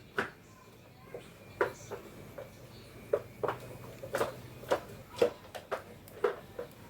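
A series of light, irregular taps and clicks, about a dozen, spaced unevenly.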